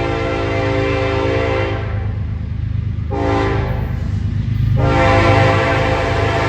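Norfolk Southern diesel locomotive's air horn sounding the grade-crossing signal. A long blast ends about two seconds in, a short blast follows about a second later, and a final long blast starts near the end, over the steady low rumble of the approaching locomotive.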